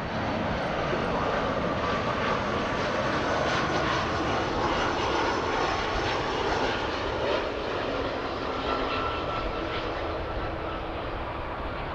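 Jet aircraft engines running: a steady rush with a faint whine in it, easing off slightly near the end.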